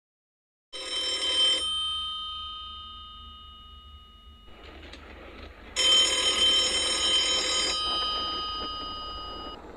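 Telephone ringing twice: a bell-like ring of about a second, then a longer one of about two seconds, each leaving tones that fade out.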